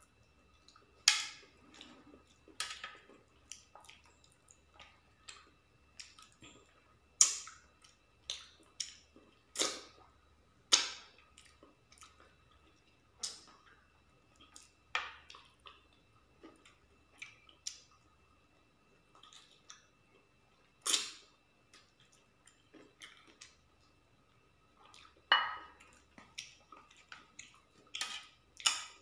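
Mouth sounds of eating rice and chicken curry by hand: irregular sharp wet smacks and clicks from chewing with open lips, some much louder than others.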